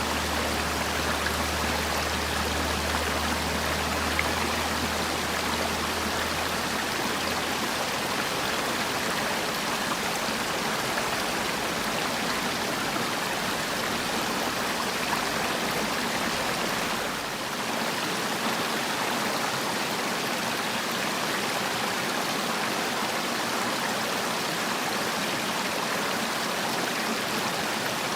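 Valley stream flowing, a steady, even rush of water.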